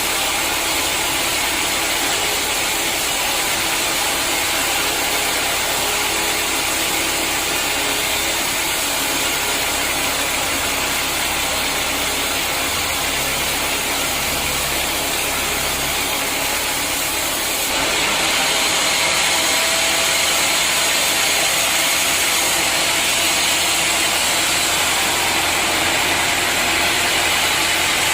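Sawmill machinery running with a steady, dense mechanical noise. A little past halfway it suddenly gets louder and brighter and holds there.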